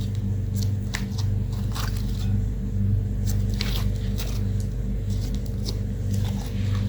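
Slime being kneaded and squeezed by hand, making irregular sticky clicks and pops. Underneath runs a steady low hum.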